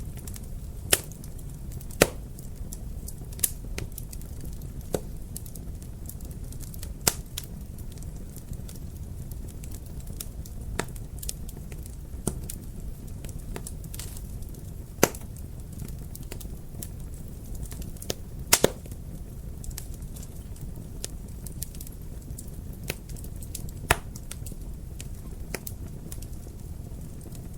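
Wood fire crackling in a fireplace: a steady low rumble of flames with sharp, irregular pops and snaps every second or two, a few much louder than the rest.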